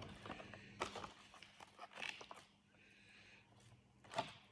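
Faint scattered clicks and short rustles of food being handled, as shredded chicken is spooned or pulled from its container onto a wrap.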